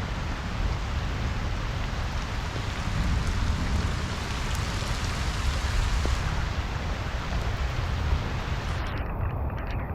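Steady rain falling on a pond's surface, with a low rumble underneath. Near the end the high hiss of the rain thins out.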